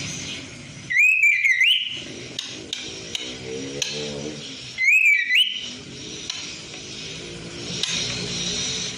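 Female white-rumped shama giving two short whistled calls, about a second in and again about five seconds in, over a steady background hiss. It is a lure call, a female calling a male.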